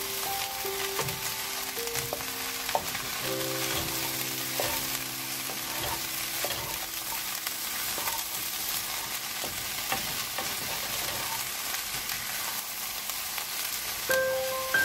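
Mixed vegetables sizzling in a non-stick frying pan as they are stir-fried, with a wooden spatula scraping and tapping against the pan now and then.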